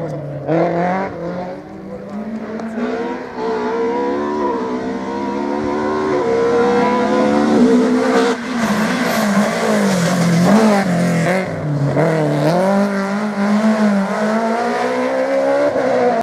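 Rally car engine revving hard, its pitch climbing and dropping again and again as it is driven through gear changes and lifts.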